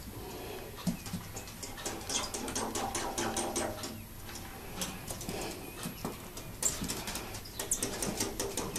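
Pet prairie dog's claws scrabbling on a hard floor: quick, light clicks and scratches, with a faint low pitched animal sound through the middle stretch.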